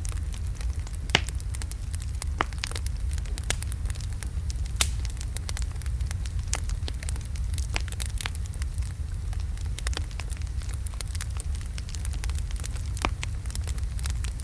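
Wood logs burning in a fireplace: a steady low rumble of flame with frequent sharp crackles and pops, the loudest about a second in and again just before five seconds in.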